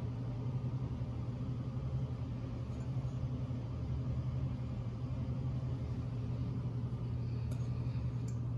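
A steady low mechanical hum with a faint rumble, with a few faint clicks near the end.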